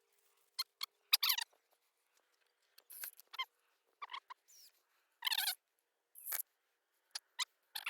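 A screw squeaking as it is turned by hand into a Keystone fence latch, in a series of short, high squeaks at irregular intervals.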